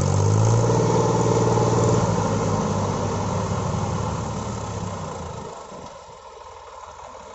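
Diesel tractor engine running loud and steady, then dying down over a few seconds and dropping away sharply about five and a half seconds in.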